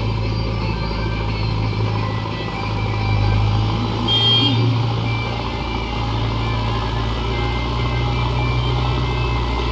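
Heavy diesel engine running steadily at a low, even note, with one brief high beep about four seconds in.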